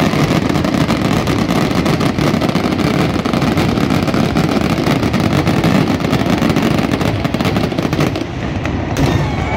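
Fireworks finale barrage: many rapid, overlapping booms and crackles that merge into one continuous loud rumble, thinning a little near the end.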